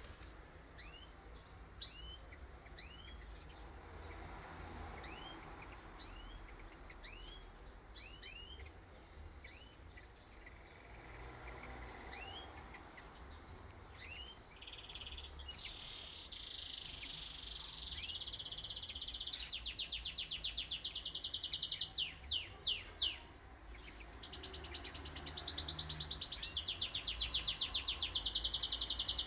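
Small songbirds in an aviary: short rising chirp calls repeat about once or twice a second, then about halfway through a bird breaks into continuous warbling song with fast trills that grows louder toward the end.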